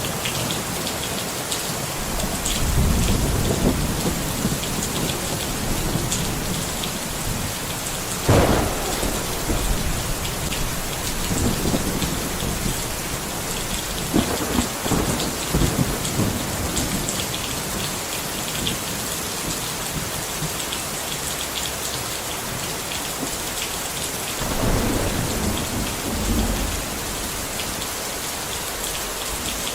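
Steady rain falling, with low rumbles of thunder coming and going several times and one sharper crack about eight seconds in.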